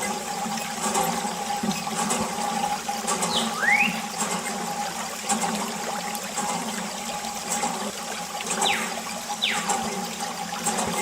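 Water gushing and splashing from a small homemade electric water pump, with the pump's little motor humming steadily underneath.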